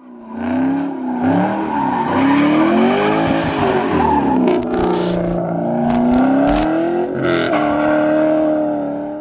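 S197 Ford Mustang's engine revving hard, its pitch rising and falling again and again, as the car drifts with its rear tires spinning. Several sharp thumps come about halfway through.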